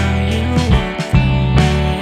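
Band music with electric guitar, bass and drums playing an instrumental intro, the drums striking at regular intervals under sustained bass notes.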